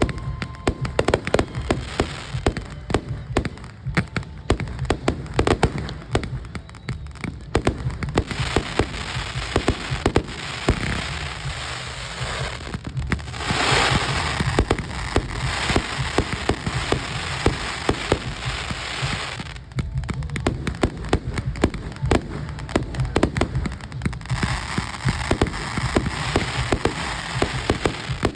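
Fireworks display: rapid bangs mixed with dense crackling, with a loud burst of crackle about halfway through.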